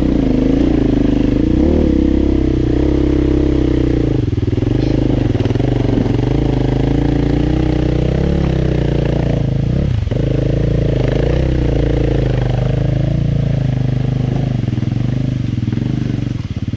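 Dirt bike engine running close by, its pitch rising and falling with the throttle.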